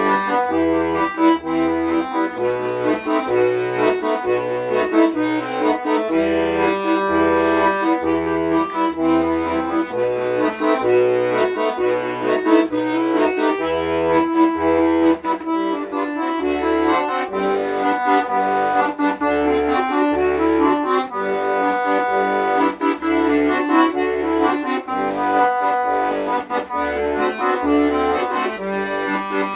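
Accordion playing an instrumental passage: a melody over a regular pattern of bass notes and chords.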